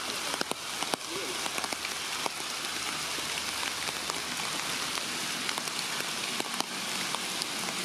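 Steady rain falling: an even hiss with scattered sharp taps of individual drops.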